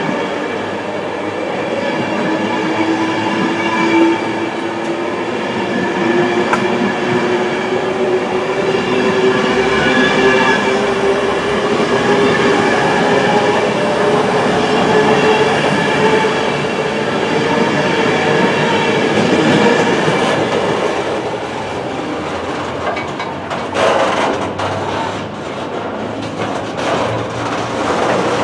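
LNER intercity passenger train running past close by, its wheels rumbling on the rails with a steady whine that slowly rises in pitch. Near the end the sound turns rougher and patchier as the last coaches go by.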